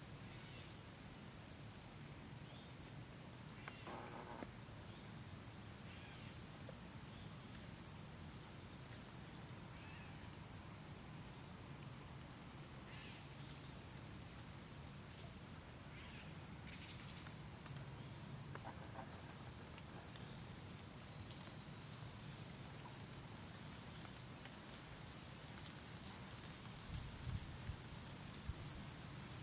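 Steady, unbroken high-pitched chorus of late-summer insects, with a few faint short calls standing out now and then, the clearest about four seconds in and again near nineteen seconds.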